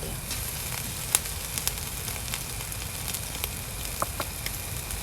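Yakitori skewers sizzling on a grill, with a sharp pop or crackle every so often.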